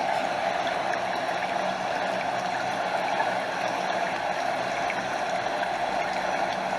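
A stream flowing steadily, its water cascading over a small waterfall, with an even rushing sound that does not change.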